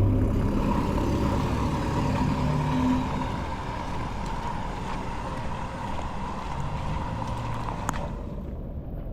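Road traffic: a motor vehicle's engine rumble with tyre hiss, easing off and dropping away sharply about eight seconds in.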